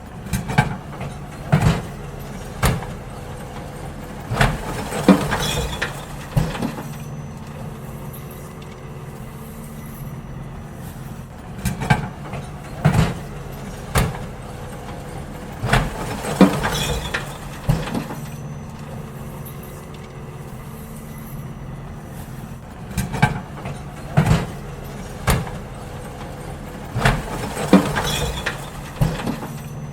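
Garbage truck running with a steady low engine hum while wheelie bins are emptied into it: three bursts of sharp clanks and knocks, each a few seconds long, coming about every ten seconds.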